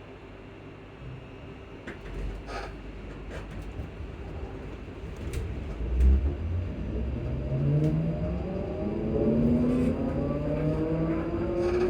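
Class 334 electric train's traction motors whining, the whine rising steadily in pitch from about halfway through as the train picks up speed, over a growing low rumble. There is a thump about six seconds in. This is the motor sound that the uploader finds odd.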